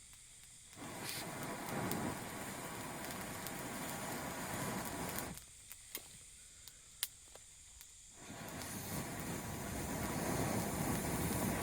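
Wood fire in a small fire stand crackling, with two long rushing hisses of about four seconds each, the second building up gradually; sharp crackles stand out in the pause between them.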